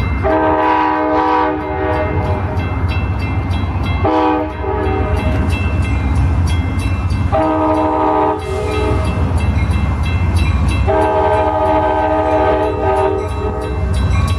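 Amtrak diesel locomotive's air horn sounding four blasts, the last the longest, over the steady low rumble of the diesel engine as the train pulls out.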